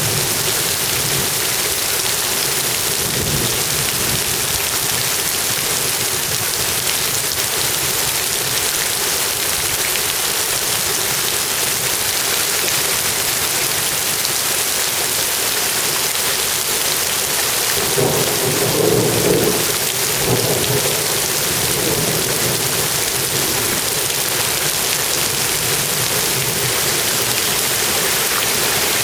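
Steady rain falling, with a low rumble of thunder about eighteen seconds in that lasts two or three seconds.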